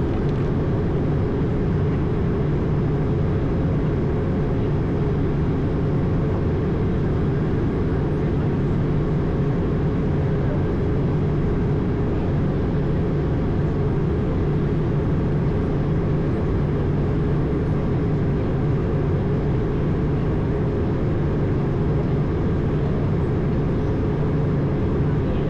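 Steady low rumble of airflow and Pratt & Whitney geared turbofan engines heard from inside an Airbus A220's cockpit in flight, with a faint steady hum above it.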